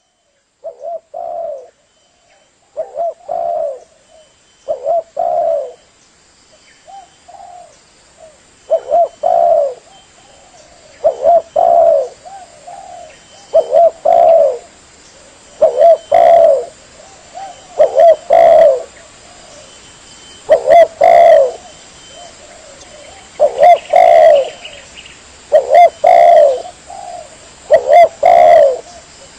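Spotted dove (tekukur) cooing over and over, a phrase of two or three low coos about every two seconds, loud and close.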